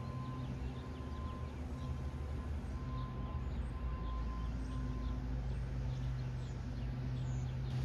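Steady low hum of a train standing at the station, with scattered faint high ticks and chirps over it.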